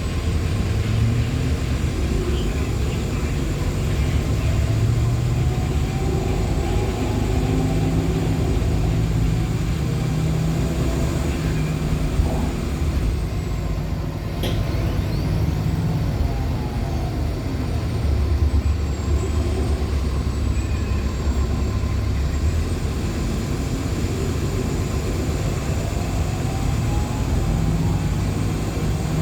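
Inside a moving 2014 NOVA LFSA hybrid articulated bus with a Cummins ISL9 diesel and Allison H50 EP hybrid drive: a steady low engine drone, with whines that rise and fall in pitch as the bus speeds up and slows down. There is a sharp click about halfway through.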